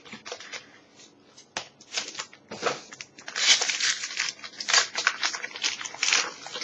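Foil booster-pack wrapper being torn open and crinkled by hand, an irregular run of crackling rustles that grows busier about three seconds in.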